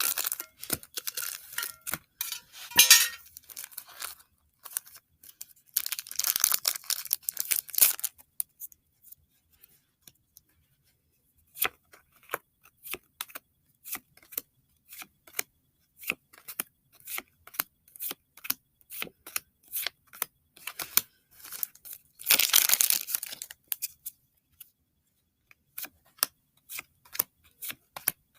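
Pokémon card mini tin being unboxed by hand: packaging torn and crinkled open in three bursts, near the start, about six seconds in, and about twenty-two seconds in. Between the bursts comes a long run of small clicks and snaps as the cards are handled.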